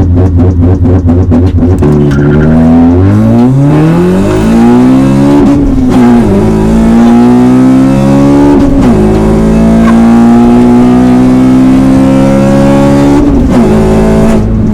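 Honda Civic Type R's K20 four-cylinder engine pulling hard through the gears. After a low, pulsing note for about two seconds, the revs climb, fall back at upshifts about 6 and 9 seconds in, hold at a steady high pitch, then drop again near the end.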